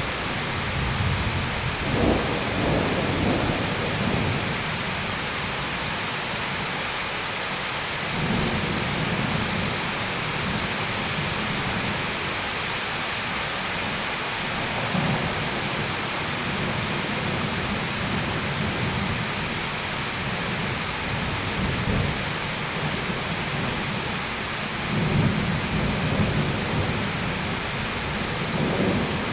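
Thunderstorm: heavy rain falling in a steady hiss, with repeated low rolls of thunder that swell and fade, one a couple of seconds in and another near the end.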